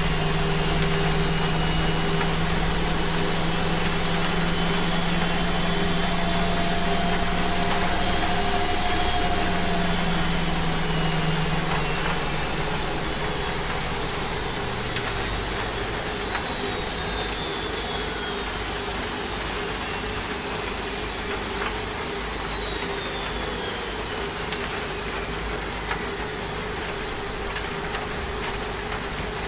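Washing machine on a high-speed spin, its high motor whine gliding steadily down in pitch as the drum slows, over an even hiss of rain. The low hum drops away and the sound eases a little about twelve seconds in.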